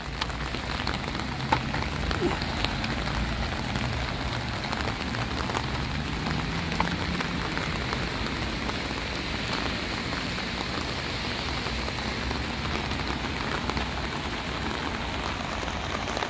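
Heavy rain falling steadily on an umbrella held overhead and on wet pavement, a constant hiss with a few louder drop hits standing out.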